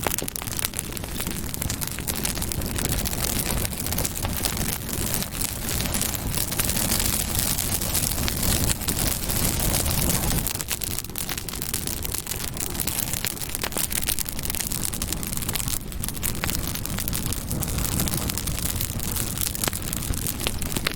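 Campfire burning, with dense sharp crackles and pops of burning wood over a steady low rush of flame.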